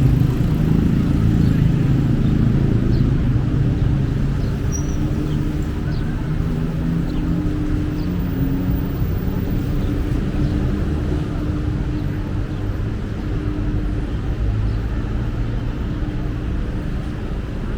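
Street traffic: motor vehicle engines running close by, a steady low drone that slowly eases off through the stretch.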